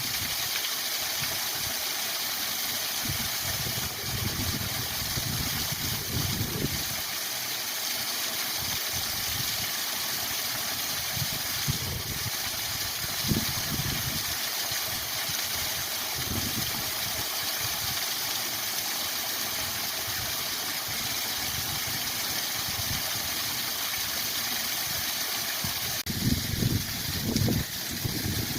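Waterfall rushing steadily, a constant full hiss of falling water, with uneven low rumbling underneath that grows stronger near the end.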